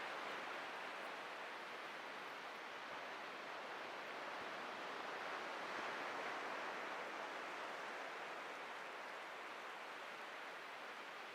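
Atlantic surf washing on the beach, a steady hiss that swells and eases slowly as waves break and run up the sand.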